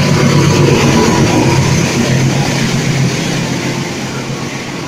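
A CC 203 diesel-electric locomotive passing close by with its engine running loudly, followed by passenger coaches rolling past; the sound eases slightly toward the end.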